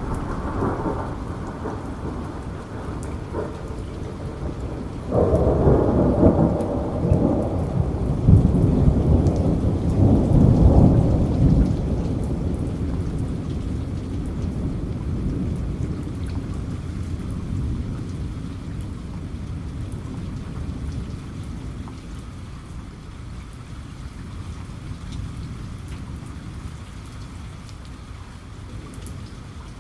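Steady rainfall with a roll of thunder that breaks in suddenly about five seconds in, is loudest a few seconds later, and rumbles away over the next several seconds while the rain goes on.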